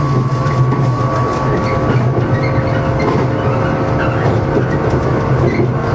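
JR East 115 series electric train running along the line, heard from inside at the front: a steady low hum of the motors and wheels on the rails, with a faint higher tone above it.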